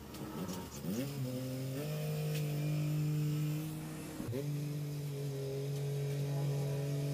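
Tractor engine revving up in quick rises in the first two seconds and again about four seconds in, holding a steady higher speed between and after.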